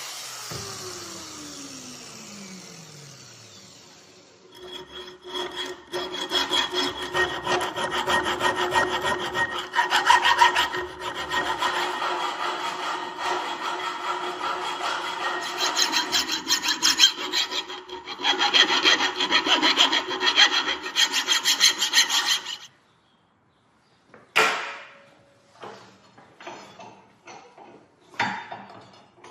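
Fast back-and-forth scraping of a hand tool on a steel workpiece, the steel ringing with a few steady tones under the strokes; it starts about four seconds in and stops abruptly near the end. Before it, a machine winds down with a falling pitch, and afterwards there are a couple of sharp metal clanks.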